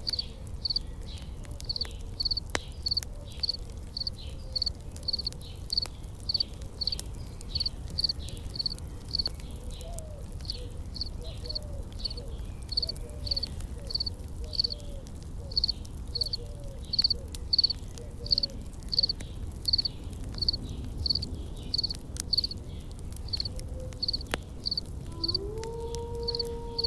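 Insects chirping in a steady, even rhythm of about two high chirps a second, over a low rumble with a few faint crackles.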